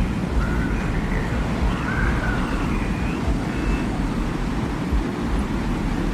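Desert wind soundscape: a steady, deep wind noise with faint, short whistling glides drifting above it.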